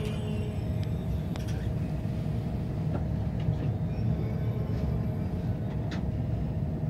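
KTX high-speed train heard from inside the passenger car: a steady low rumble with a few light clicks.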